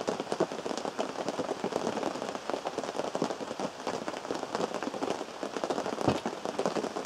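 Rain drumming on a canvas tent roof, heard from inside the tent: a dense, steady patter of many small drop impacts. One louder, deeper knock comes about six seconds in.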